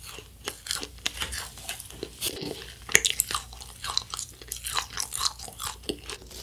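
Chewing a mouthful of UFO wafer candy (space candy) with crunchy toppings: many small, irregular crunches.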